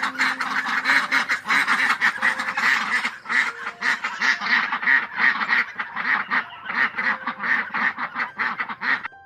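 A flock of domestic waterfowl calling over one another, a dense run of rapid, overlapping calls several a second, which stops just before the end.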